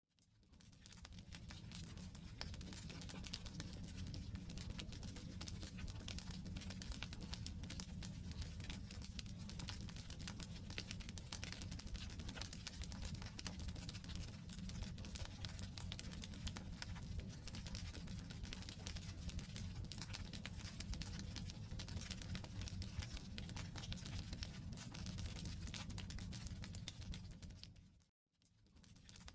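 Wood campfire burning: a dense, continuous crackling and popping of firewood over a low, steady rumble of the flames. Near the end the sound briefly fades out to silence and fades back in.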